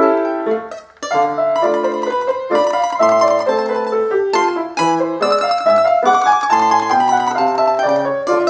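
Instrumental music: a quick melody of sharply plucked or struck notes over lower bass notes, with a brief break about a second in.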